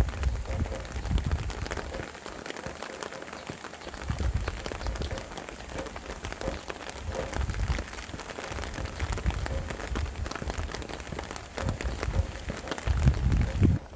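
Steady rain falling with a dense patter of drops, while gusts of wind rumble low on the microphone every few seconds. The rain sound drops away abruptly at the very end.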